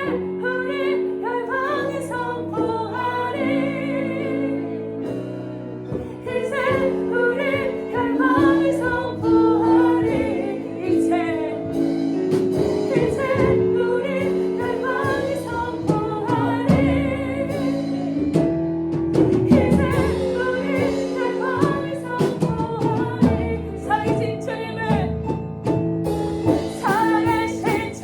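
A worship song: several voices singing a melody together over a steady band accompaniment.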